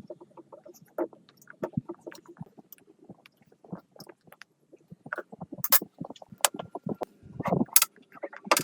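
Workshop handling noises: a string of irregular light knocks and taps, with a few sharp metallic clinks in the second half, as metal parts and tools are handled.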